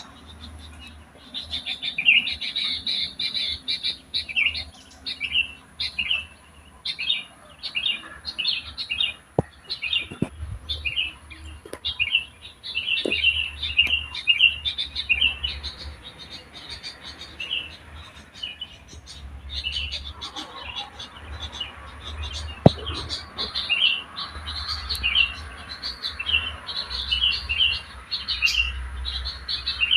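Wild songbird chirping and twittering without pause, in quick high notes. A few sharp clicks and a low rumble sit underneath.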